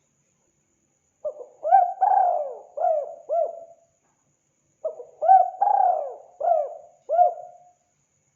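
Spotted dove (tekukur) cooing: two phrases of several short, low coos, the second phrase starting about three and a half seconds after the first.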